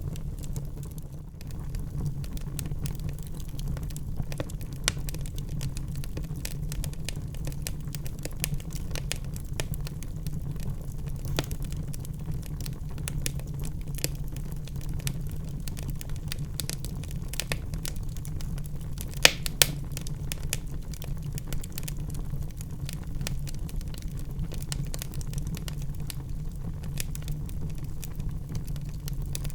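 Wood fire burning in a fireplace: a steady low rumble of flames with frequent small crackles and two louder pops about two-thirds of the way through.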